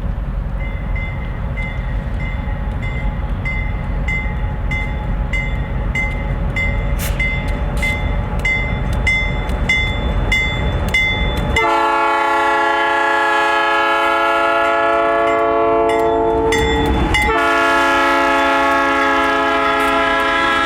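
Diesel freight train rumbling past with a grade crossing bell ringing about twice a second. About halfway through, the lead locomotive's multi-chime air horn sounds a long blast, then after a brief break a second long blast starts.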